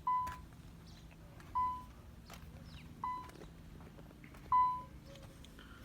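Car's interior warning chime from a 1994 Nissan 300ZX: a single mid-pitched tone that fades quickly, repeating about every one and a half seconds, four times.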